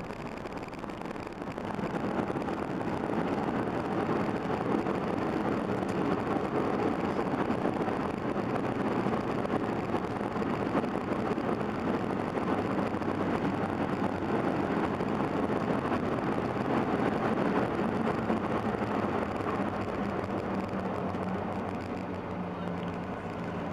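Cabin noise of a Boeing 737-800 jet airliner landing. A loud roar rises about two seconds in, holds steady, then eases off near the end, leaving a low hum as the aircraft slows.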